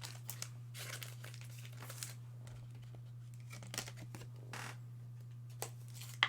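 Crinkling of trading-card pack wrappers and cards being handled, with a few soft sharp clicks, over a steady low electrical hum.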